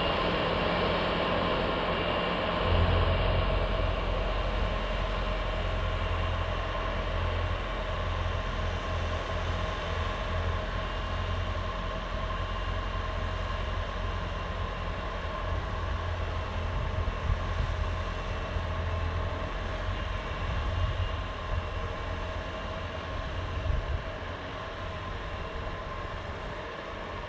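Bobcat T595 compact track loader running steadily with its SB200 snowblower attachment, a heavy low rumble with a steady whine above it.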